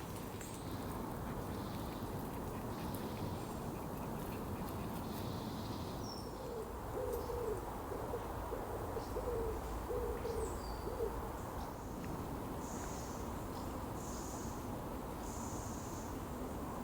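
A bird's low hooting call: a phrase of several soft notes about six seconds in, lasting some four seconds. Small birds give short high chirps and calls throughout, over a steady woodland hiss.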